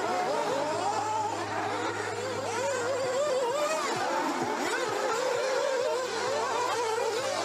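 Several nitro RC buggy engines buzzing at once, their pitch rising and falling constantly as the cars are throttled up and backed off around the track.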